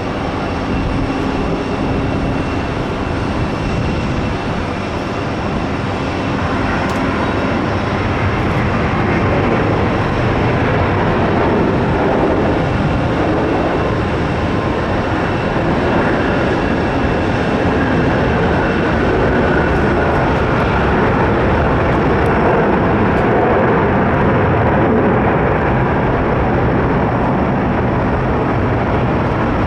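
Jet engine roar of a Boeing 777-200ER landing, a loud steady rumble with a faint whistle that swells over the first ten seconds and then holds.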